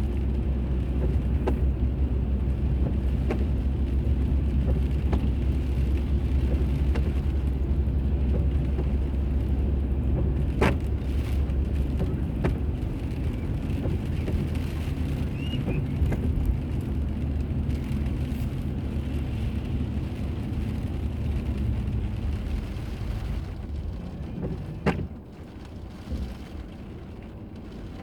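A car driving, heard from inside the cabin: a steady low rumble of engine and road noise that quietens after about twenty-three seconds. A few sharp clicks come through, the loudest near the end.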